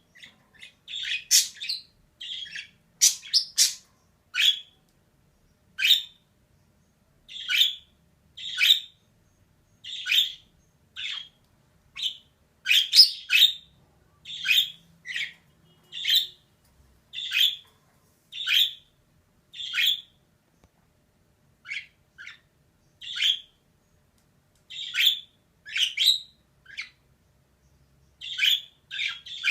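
Female budgerigar chirping: short, sharp chirps about one a second, with a few quick runs of several chirps close together.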